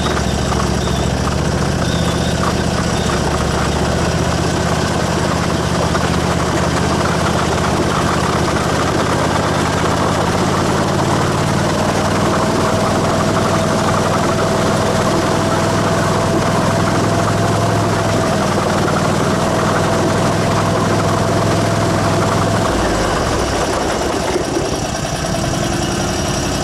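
Vehicle engine running at a steady idle or low speed, its low hum changing about 23 seconds in as the throttle eases off.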